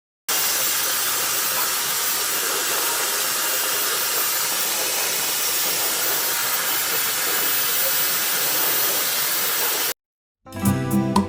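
A loud, steady, even hiss that starts and cuts off abruptly, as an edited-in clip. After a short gap, acoustic guitar music begins near the end.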